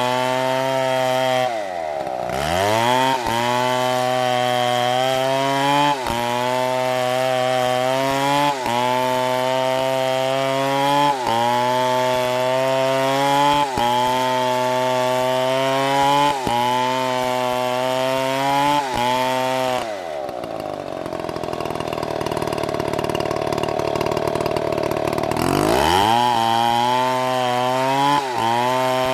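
Chainsaw engine running hard while cutting wood, its pitch sagging under load and recovering about every two and a half seconds. About two-thirds of the way through it drops to a lower, slower note for several seconds, then revs back up.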